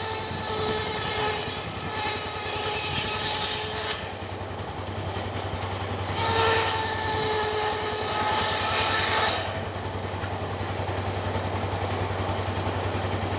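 Engine running steadily at a low hum, with two spells of louder, hissing machine cutting of about four and three seconds, typical of an engine-driven wood saw at work.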